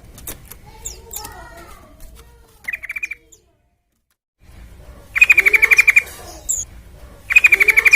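Yellow-vented bulbul calling: three fast rattling trills of about a dozen notes, each under a second long, coming about three, five and seven seconds in, with softer scattered chirps between. The sound cuts out completely for about a second after the first trill.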